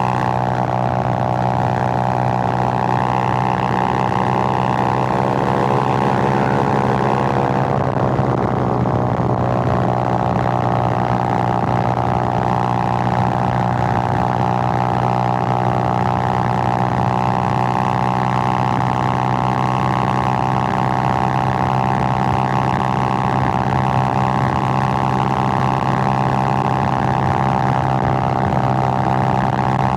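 Suzuki GN125's single-cylinder four-stroke engine running steadily under way on the road. Its note drops briefly about eight seconds in, then climbs back up.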